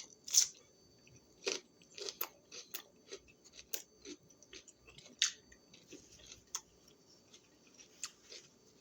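Close-up chewing of a crunchy raw vegetable snack: a loud crunching bite just after the start, then irregular crunches as it is chewed, growing sparser and quieter toward the end.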